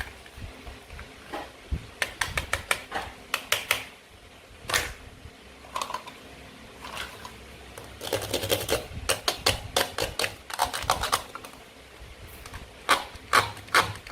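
Plastic toy food being cut and handled: quick runs of sharp plastic clicks and clatter come in several bursts, with short pauses between them.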